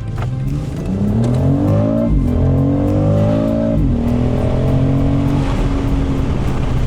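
2025 BMW X3 M50's turbocharged inline-six accelerating hard, its pitch climbing through the revs with two quick upshifts, about two and four seconds in, before settling into a steady cruise.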